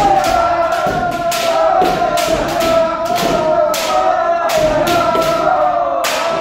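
Kendo free sparring: several kendoka's drawn-out kiai shouts overlapping, with repeated sharp cracks of bamboo shinai strikes and stamping footwork.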